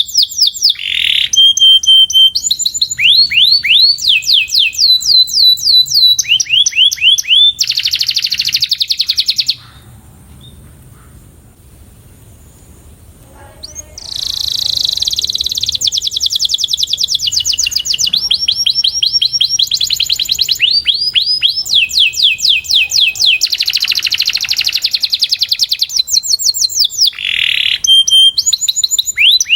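Domestic canary singing in long rolling trills of quickly repeated notes, breaking off for about four seconds partway through before starting up again.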